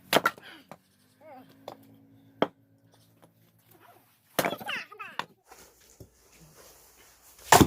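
An axe strikes wood four times while splitting firewood: sharp single chops a couple of seconds apart, the last the loudest. Short voice sounds come between the strikes.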